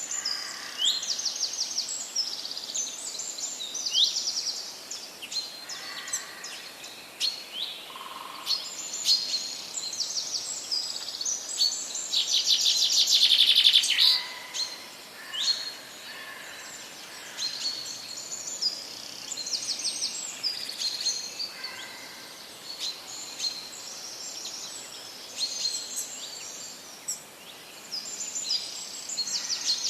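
Several songbirds chirping and singing in a continuous chorus of short, quick whistled notes. A louder, rapid trill stands out about halfway through.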